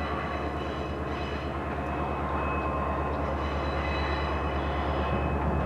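Diesel-hauled passenger train moving away around a curve: a steady low rumble, with thin high squealing tones from the wheels on the curve that come and go.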